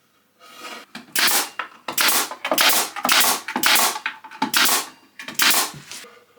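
A run of about seven quick scraping strokes on timber, one after another, each short and rough.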